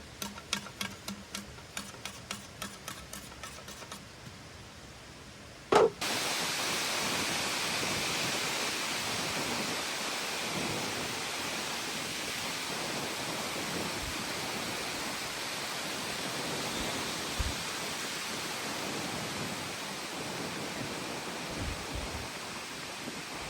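A hand saw cutting through wood in quick regular strokes for the first few seconds, then a single sharp knock, then steady heavy rain for the rest.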